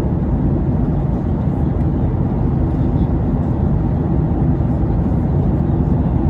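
Steady low noise of engines and rushing air inside an airliner cabin in flight.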